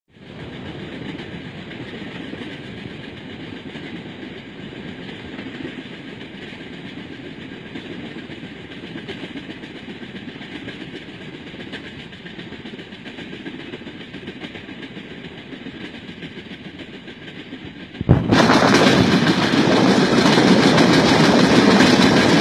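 Train running along the track, a steady rumble of wheels on rails. About eighteen seconds in, the sound turns suddenly much louder and harsher.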